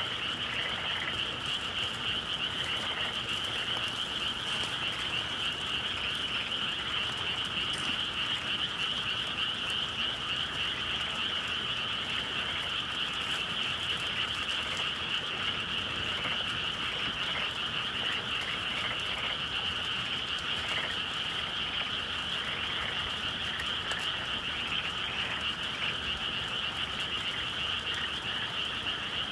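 A dense chorus of many frogs calling continuously, a steady overlapping trill with no pauses.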